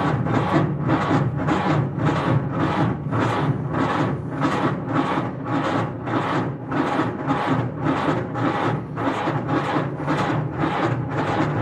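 Ford Model A four-cylinder engine being turned over by its starter motor without catching: an even rhythmic churn of about two to three compression pulses a second. It is a cold start in freezing weather with the choke on, after a long time unstarted.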